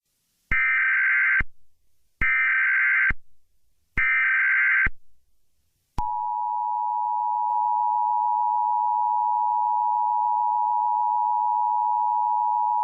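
Emergency Alert System SAME header: three short bursts of warbling data tones, each just under a second long. About a second later comes the steady two-tone EAS attention signal, which starts about six seconds in and keeps going. It marks the start of an emergency alert message.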